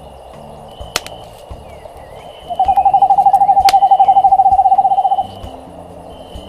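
An owl's trill: a long call on one pitch, made of rapid even pulses, starting about two and a half seconds in and lasting about two and a half seconds. Underneath, a campfire crackles, with two sharp pops.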